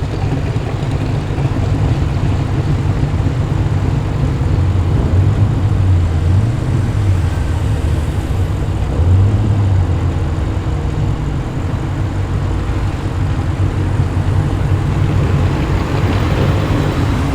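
Car engines running at low speed as cars drive slowly past: a steady low rumble that swells and fades a little, with no hard revving.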